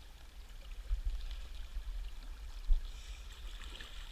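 River water running, a steady wash with an uneven low rumble under it and a single low bump about two and a half seconds in.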